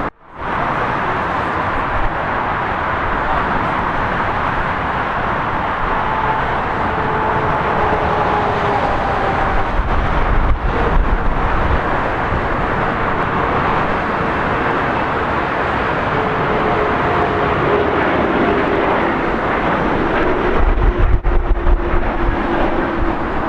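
Jet airliner's engines: a steady rushing noise with faint tones that slowly fall in pitch as it passes. Wind buffets the microphone at about ten seconds and again near the end.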